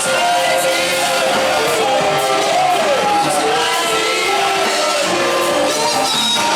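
Congregational worship singing: many voices singing together over a live band in a large hall, with occasional shouts.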